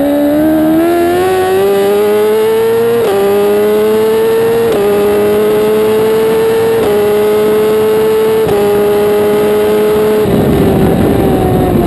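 1000 cc superbike engine accelerating hard through the gears: the revs climb for about three seconds, then four quick upshifts follow, each a short drop in pitch. Near the end the note turns rough and sinks as the throttle comes off.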